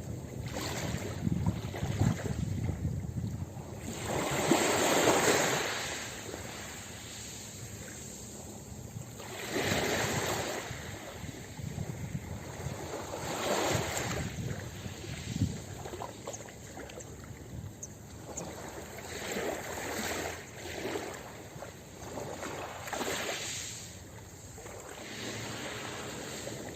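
Ocean surf breaking on a beach, a steady wash of waves that swells into a louder break every few seconds, the biggest about five seconds in.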